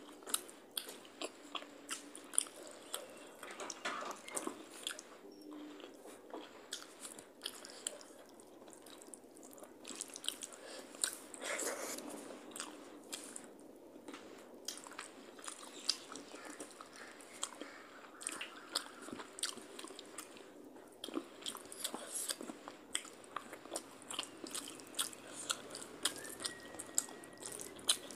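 Close-miked chewing and wet mouth sounds of someone eating rice and curry by hand, with many short sharp clicks throughout.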